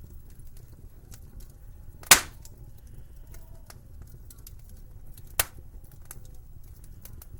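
Wood fire crackling in a fireplace, with small scattered crackles over a low rumble and two loud sharp pops, one about two seconds in and one about five seconds in.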